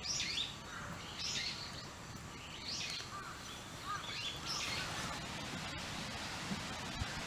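A bird calling repeatedly outdoors, a short sweeping call about every second and a half, with fainter short calls later on over a steady background of outdoor noise.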